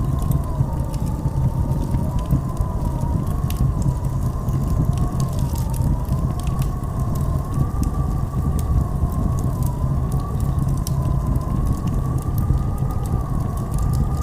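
Blizzard wind howling with a slowly wavering whistle over a steady low rumble, with scattered sharp crackles throughout.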